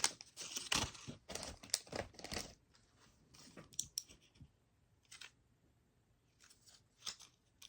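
Plastic snack wrappers crinkling and rustling as packets are handled. The rustling is busiest in the first two and a half seconds, then gives way to a few scattered clicks and taps.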